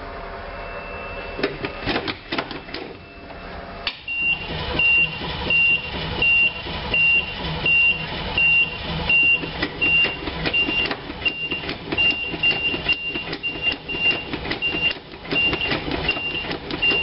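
Starter cranking the 1986 GMC Blue Bird school bus's 366 gas V8, which does not catch: the mechanical fuel pump is still drawing fuel up to the rebuilt carburettor after four months sitting. From about four seconds in, a high warning beeper sounds over the cranking, about one and a half beeps a second.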